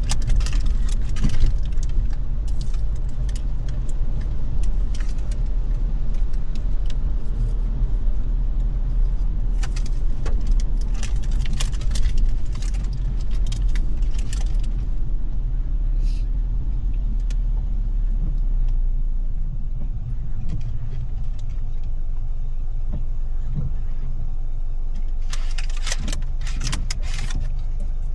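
Steady low rumble of a car heard from inside the cabin, with scattered light taps and clicks of rain on the glass and roof over it, thicker in the first half and again near the end.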